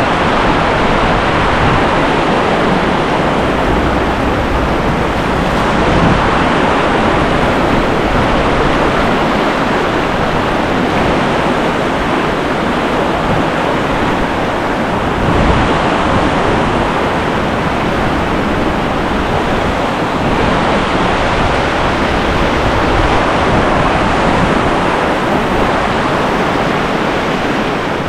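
Rushing whitewater of a river rapid: a steady, loud rush of water.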